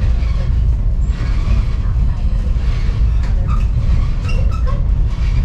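Passenger railcar riding along the track: a steady low rumble with the car body creaking and rattling, and a cluster of short clicks and squeaks in the middle.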